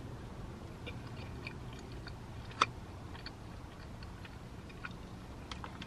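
A person chewing a mouthful of Cajun chicken pasta: soft, faint wet mouth clicks. There is one sharper click about two and a half seconds in.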